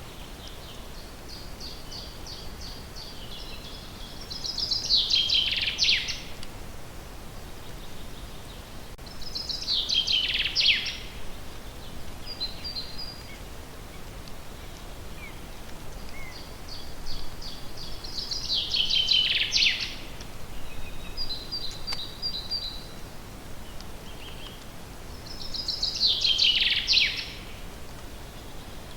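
A songbird singing the same song four times, about every seven seconds: each phrase is a couple of seconds of rapid repeated high notes ending in a louder, falling flourish. Softer short chirps come between the phrases over a steady faint hiss.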